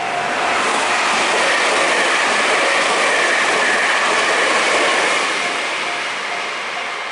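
Electric train passing at speed close by, its noise building to a peak and then fading away. A level-crossing warning bell rings repeatedly at about two strikes a second, heard at the start and again near the end.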